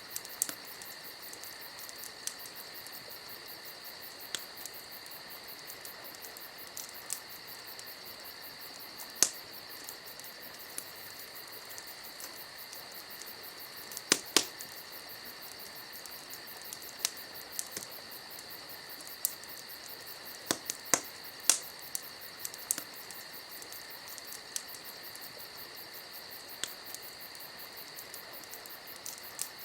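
Wood campfire crackling with irregular sharp pops, the loudest a cluster about fourteen seconds in, over a steady high-pitched trilling of crickets.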